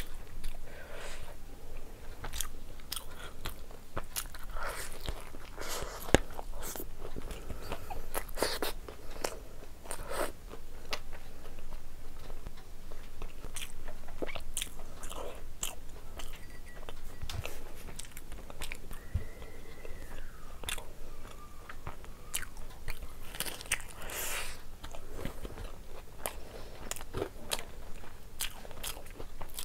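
A person biting and chewing crisp deep-fried snacks dipped in tamarind chutney, a steady run of sharp crunches and crackles.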